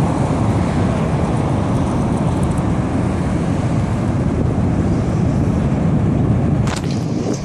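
Steady, loud low rumble of an approaching EF5 tornado, sounding like a train, mixed with wind noise on the microphone.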